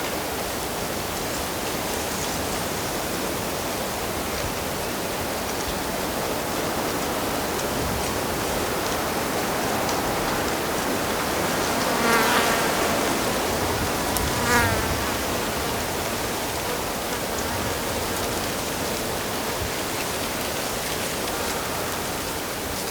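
Steady rush of flowing stream water, with a flying insect buzzing close past twice about halfway through.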